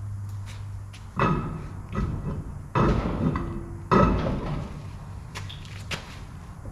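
Three loud metallic clanks about a second apart, starting a second in, each ringing briefly, with lighter knocks between and after them, typical of metal being struck or parts knocked together in repair work.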